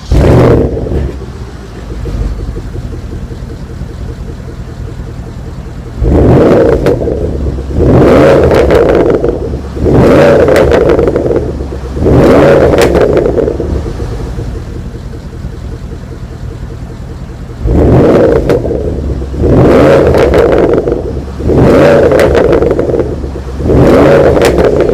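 Porsche Panamera Turbo twin-turbo V8 exhaust: idling, blipped with the throttle. There is a loud rev right at the start, then two sets of four short revs about two seconds apart, each falling back to idle.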